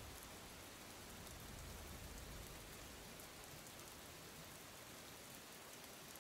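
Faint, steady rain falling: an even hiss with a light patter of drops.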